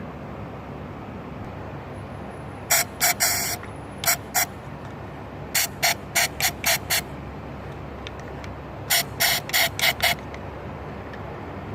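Compressed-air blow gun fired in short blasts into the spark plug wells to clear out dirt before the plugs are removed. The puffs come in three quick groups of five or six, the first about three seconds in.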